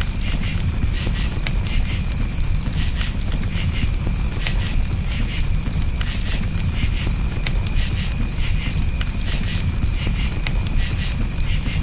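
Crickets chirping in steady high pulsing trills over a crackling campfire, with scattered pops and a low steady rumble beneath.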